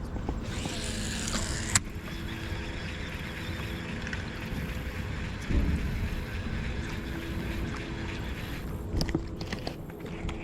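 Steady low rumble of a boat on fast-flowing flood water, with a faint steady hum. There are a few sharp clicks about two seconds in and again near nine seconds, and a heavier bump about halfway through.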